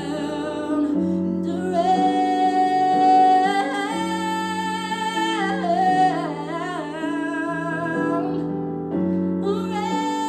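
Live music: a woman singing long, held notes that waver and glide, with no clear words, over sustained accompaniment chords that change every second or two.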